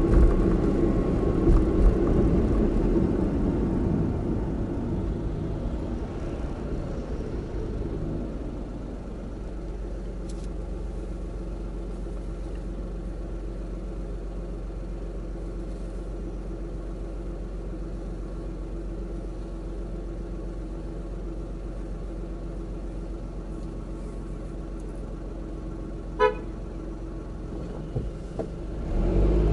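Car engine and road noise, loud at first, fading over several seconds to a low steady hum as the car slows and waits. About 26 seconds in, a car horn gives one short toot. Near the end the engine and road noise swell again as the car moves off.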